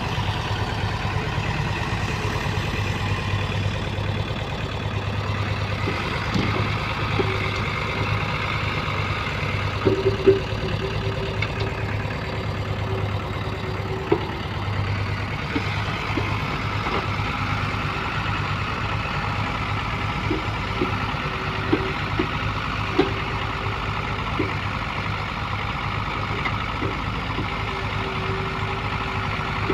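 Diesel engine of a Hyundai Robex hydraulic excavator running steadily while it digs and loads mud, with a whine that comes and goes and occasional short knocks.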